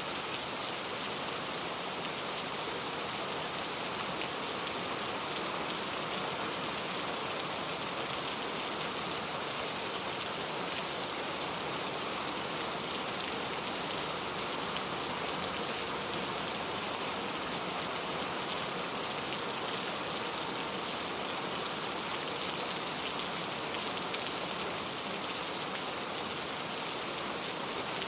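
Steady rainfall, an even hiss of many small drops pattering on a surface, with no change in intensity.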